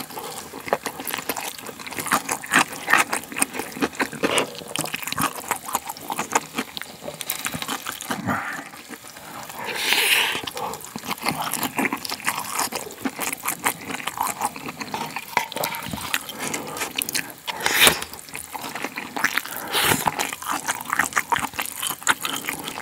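Close-miked wet chewing, smacking and swallowing of spicy stir-fried pork tripe (gopchang) and vegetables, a dense run of short wet clicks with a longer hissing noise about ten seconds in.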